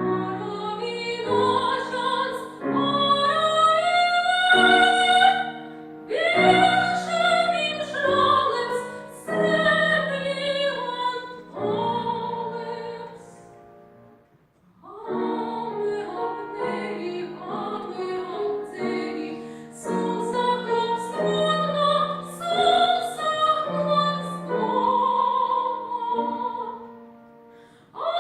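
A trained female voice singing an operatic romance with piano accompaniment, the voice carrying wide vibrato over held piano chords. About halfway through the music drops almost to silence for a moment before the voice and piano come back in.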